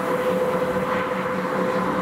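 Electric locomotive hauling a long freight train of open wagons as it approaches, running with a steady whining hum.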